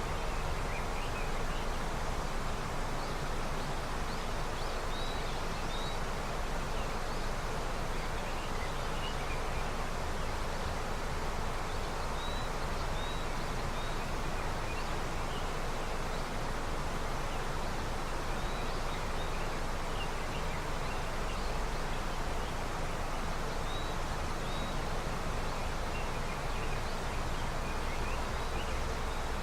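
A river in early snowmelt flowing with a steady, even rush of water, with faint high chirps now and then.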